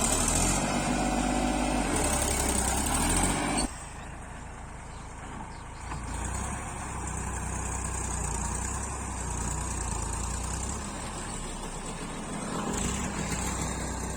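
Tractor engine running steadily with a low hum; the sound drops sharply in level about four seconds in and continues as a quieter, steady rumble.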